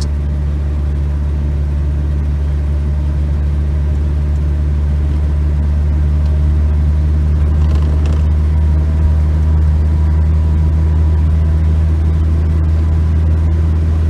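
Škoda 120's rear-mounted four-cylinder petrol engine running steadily at a constant speed.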